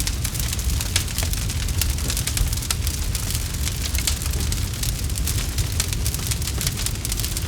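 Campfire crackling: a steady low rumble of burning with many small sharp pops and snaps scattered irregularly throughout.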